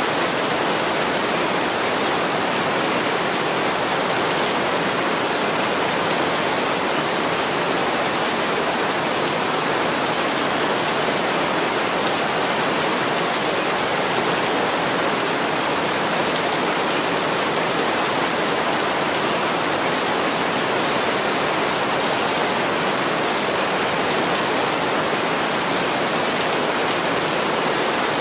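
Heavy rain pouring steadily onto a window, a dense, even hiss.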